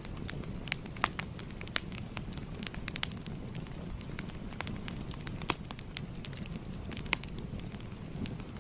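Fire crackling: irregular sharp pops and snaps over a steady low rumble, with a few louder pops about a second in, midway and near the end.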